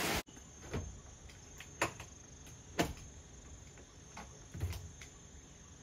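A few soft, short knocks, roughly one a second, over quiet background.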